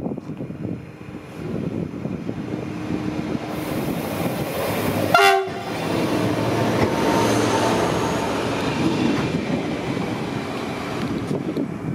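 Stadler class 331 diesel railcar running into the station past the platform, its engine and wheels rumbling louder as it comes alongside. It gives one short horn blast about five seconds in.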